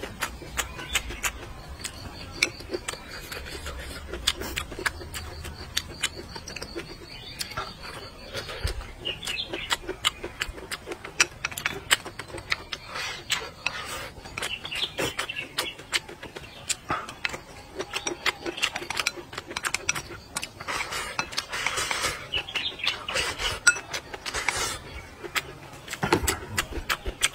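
Close-up eating sounds: a person chewing and smacking lips over braised pork rib and rice, a dense run of small wet clicks and smacks. Birds chirp faintly in the background.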